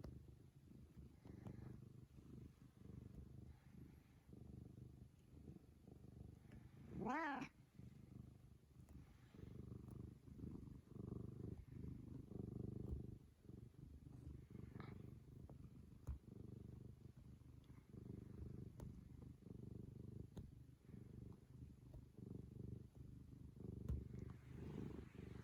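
Domestic cat purring steadily and faintly, with one short rising-and-falling vocal call about seven seconds in.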